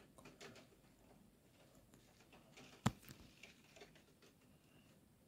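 Faint scattered ticks of raindrops on a window, with one sharp, louder click about three seconds in.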